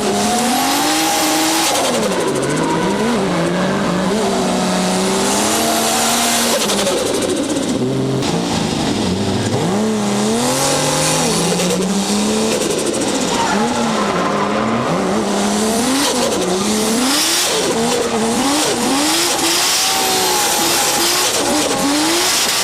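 Toyota 1JZ turbocharged inline-six, fitted with a Trust T67-25G turbocharger, revving up and down over and over as the car drifts, with tyres squealing.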